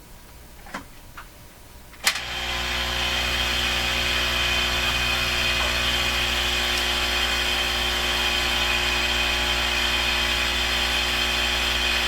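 Heat gun switched on with a click about two seconds in, then its fan motor running steadily with a constant whine and rush of air. It is not heating at first.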